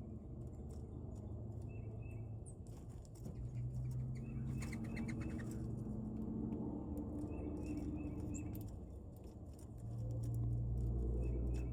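Wild birds at a feeder: short calls repeated in quick clusters a few times, with wings fluttering and scattered small clicks, over a steady low rumble that grows louder near the end.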